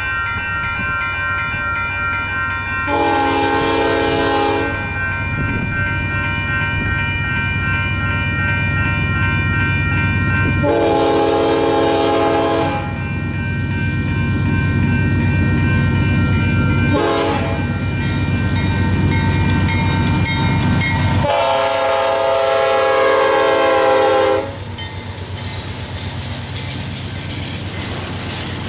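A Nathan K5HL five-chime horn on a GE Dash 9 diesel locomotive sounds the grade-crossing pattern: two long blasts, a short one, then a final long blast. Under it, grade-crossing bells ring steadily and the locomotive's engine rumbles as it nears. Near the end the horn stops and the train rolls through the crossing with wheel clatter.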